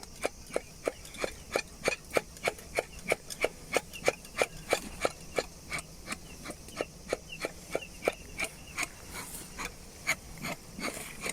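Bee smoker's bellows being pumped quickly, each squeeze giving a short squeaky puff of air, about three a second, tailing off near the end.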